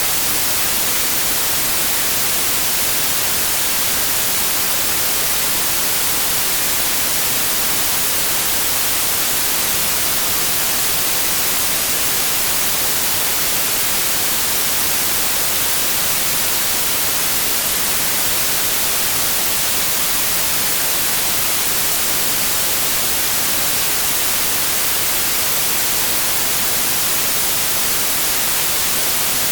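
Synthetic white noise: a steady, even hiss with no changes.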